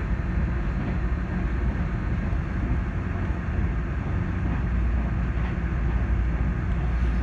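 Steady low rumble and noise inside a Taiwan Railways passenger train car.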